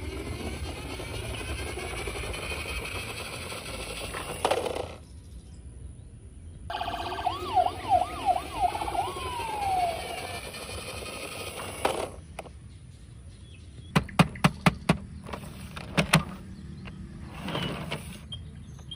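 Electronic siren sounds: gliding tones that cut out about five seconds in, then return as a few quick rising-and-falling wails and a falling sweep. Near the end comes a quick run of sharp clicks.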